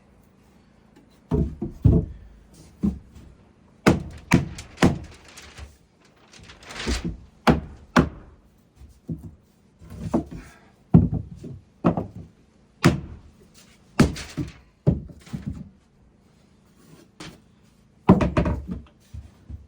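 Irregular heavy wooden thunks and knocks, some in quick clusters, as framing lumber is handled and set in place. A faint steady hum runs underneath.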